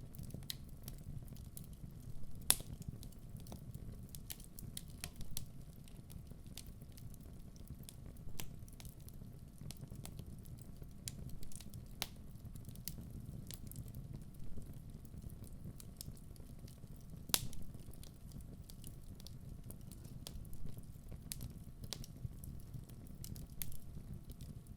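Wood fire burning in a fireplace: a steady low rumble of the flames with irregular sharp crackles and pops from the burning logs, two louder pops about two and a half seconds in and about seventeen seconds in.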